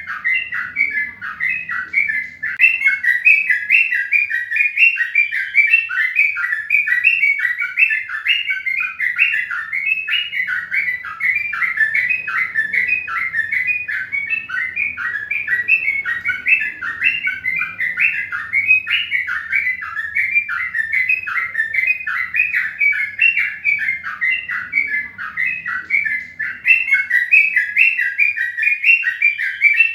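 A bird chirping continuously in a fast, even run of short, falling chirps, about three or four a second.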